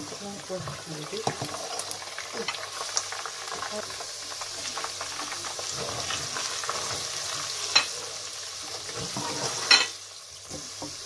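Sliced onions and spices sizzling as they fry in hot vegetable oil, with a spatula stirring and scraping them around the pot. A couple of sharp knocks come near the end, the loudest about ten seconds in.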